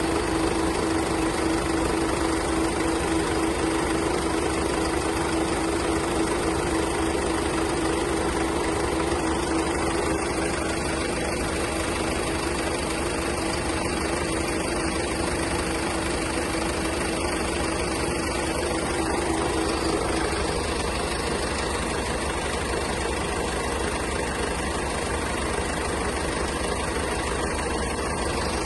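Mercedes-Benz Sprinter engine idling steadily, with a strong even hum.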